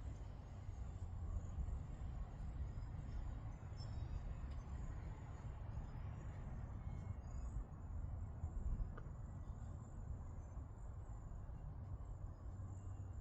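Outdoor ambience: a steady high-pitched chirring of insects over a continuous low rumble, with a few faint ticks.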